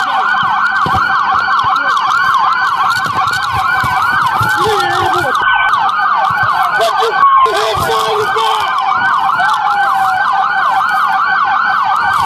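Several police car sirens sounding at once: a fast repeating yelp, about four sweeps a second, over a slower wail.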